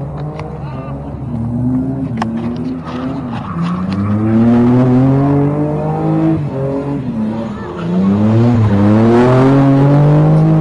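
Car engine being revved hard, its pitch climbing in long sweeps, dropping back and climbing again about three times, loudest in the last few seconds.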